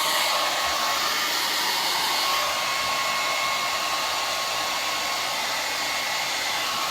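Handheld hair dryer blowing steadily on long hair, a continuous rush of air with a thin steady whine from its motor.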